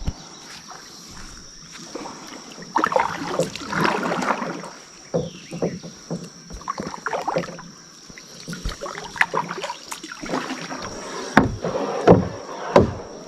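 Kayak paddling: paddle blades dipping and splashing in the water in uneven strokes, with a few sharp knocks.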